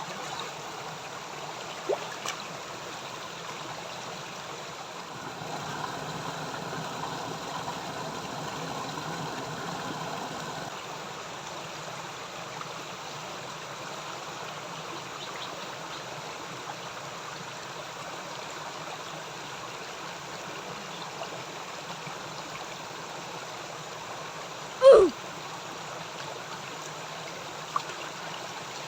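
Stream water running steadily, swelling for about five seconds. Near the end there is one short, loud sound that falls in pitch.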